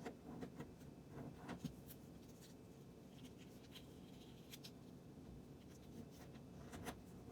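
Faint rustling and soft crinkles of a sheet of origami paper being folded and creased by hand, a few light ticks scattered over a quiet room hum.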